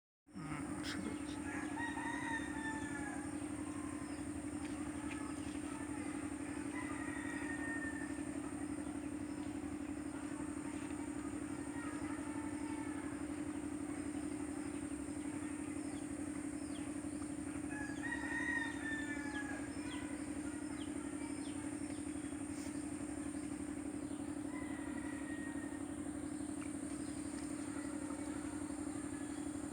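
A rooster crowing a few times, loudest about 18 seconds in, over a steady low hum and a steady high-pitched whine.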